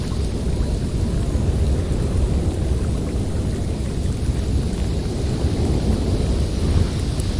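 Blizzard wind blowing steadily: a deep, continuous rumble with a thin hiss above it.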